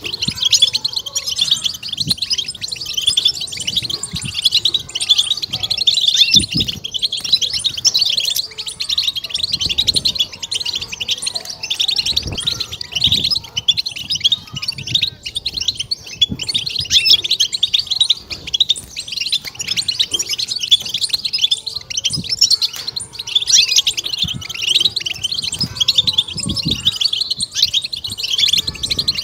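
European goldfinch singing an excited, unbroken twittering song of rapid chattering notes and trills, the 'batbata' chatter used to stimulate caged goldfinches.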